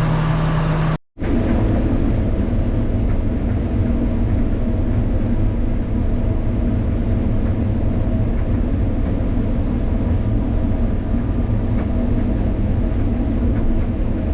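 Combine harvester running steadily with a low rumble while harvesting corn. A brief dropout to silence about a second in.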